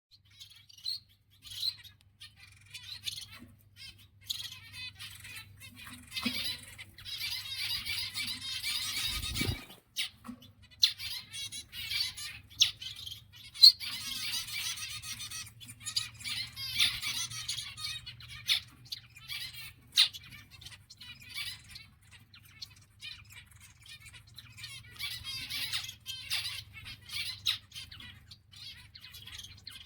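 A group of zebra finches calling and singing: many short, high calls, with busier stretches of chattering song every few seconds. A faint low hum runs underneath, and there is one low thump about nine and a half seconds in.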